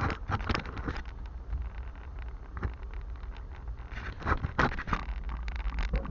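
2005 Ford F-250 diesel pickup driving: a steady low engine and road rumble, with scattered knocks and rattles.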